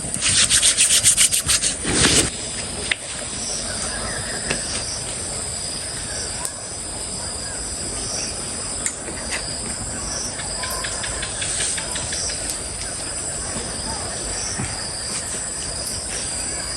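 Insects chirring steadily in the summer heat at two high pitches. In the first two seconds there is a quick scraping or rubbing at about ten strokes a second, ending in a loud knock, then a few light clicks.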